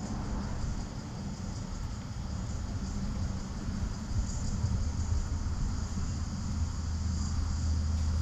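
Insects chirring steadily in the background over a low, steady hum that grows a little stronger near the end.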